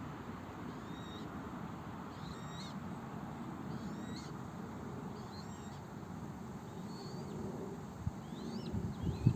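An animal's short, high-pitched calls, repeated about once a second, over a steady low rumble. A couple of knocks come near the end.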